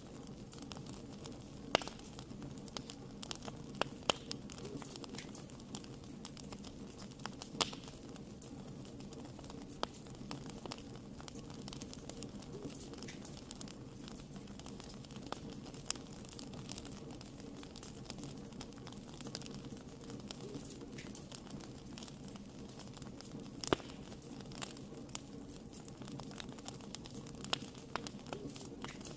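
Wood fire burning in a fireplace: a steady low rush of flames with irregular sharp crackles and pops, a few louder snaps scattered through.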